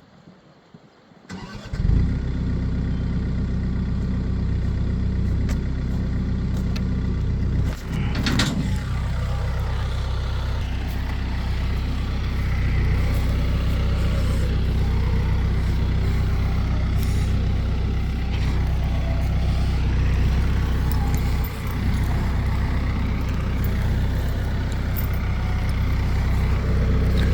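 A motor vehicle engine starts about two seconds in and then runs steadily at a low, even speed. There is a brief knock about eight seconds in.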